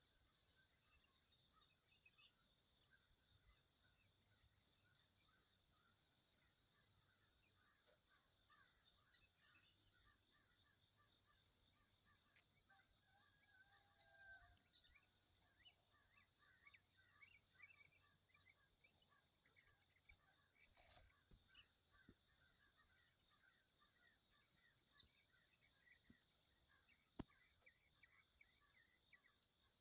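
Very faint outdoor ambience: a steady high insect buzz with many scattered bird chirps, and one short gliding call about halfway through.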